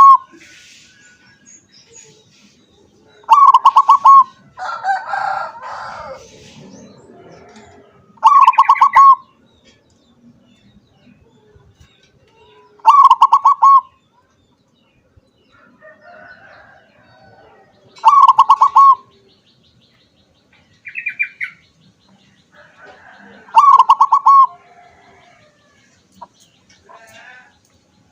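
Zebra dove (perkutut) singing its cooing song five times, roughly every five seconds, each phrase a quick run of notes about a second long. A brief noisier burst follows the second phrase, and a short higher chirp comes near the end.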